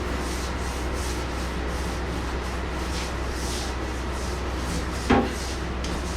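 Stiff brush scrubbing a wet, soapy floor in repeated strokes, about two a second, over a steady low hum. About five seconds in there is one brief, sharp, louder knock or squeak.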